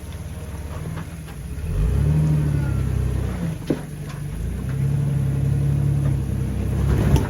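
Jeep engine revving in two swells of a couple of seconds each, as it works at low speed on the trail. A single sharp click falls between the two swells.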